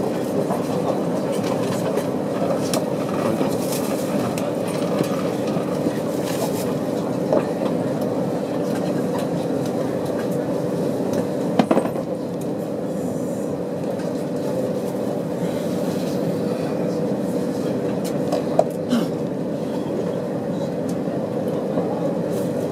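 Shinkansen train running slowly into a station, heard from inside the passenger car: a steady running rumble with a hum. Two sharp clicks come about halfway through and again near the end.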